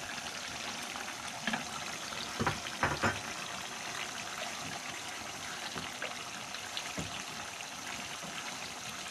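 Chicken livers and sliced onions sizzling steadily in hot oil in a wok, with a wooden spatula knocking and scraping against the pan several times as they are stirred.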